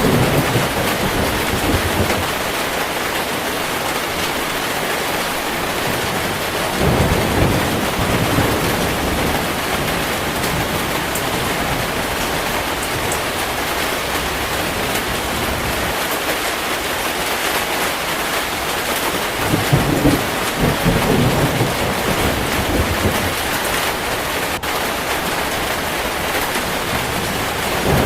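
Heavy rain falling steadily, with low rolls of thunder at the start, about seven seconds in, and again around twenty seconds in.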